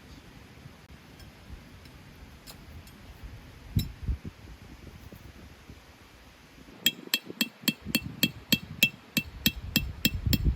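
A utensil beating rapidly against a bowl, an even run of sharp ringing clinks about five a second starting about seven seconds in, the sound of batter being mixed. Two dull knocks come just before the four-second mark.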